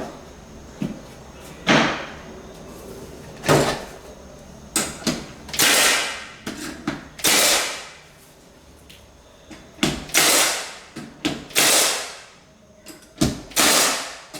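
Sharp blows on hardwood flooring boards as they are laid: about seven strong hits, roughly every one and a half to two seconds, each trailing off over about half a second, with lighter knocks in between.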